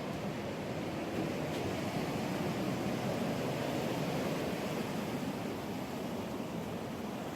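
Ocean surf breaking and washing onto a beach: a steady rushing that swells a little in the middle.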